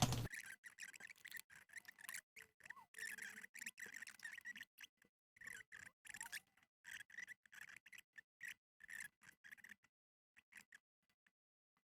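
Faint, irregular ticks and light scrapes of tweezers handling a single fine wire strand on a circuit board, thinning out to near silence near the end.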